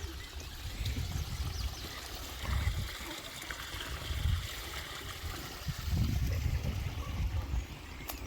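A small stream trickling and gurgling steadily, with a few dull low rumbles, the loudest about two and a half seconds in and again from about six to seven seconds.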